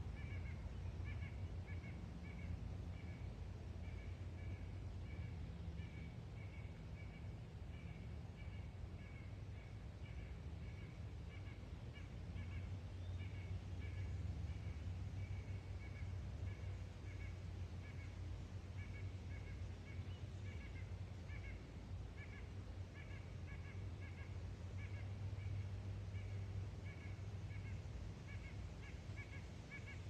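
Birds calling over and over in short, high calls, several a second, over a steady low rumble.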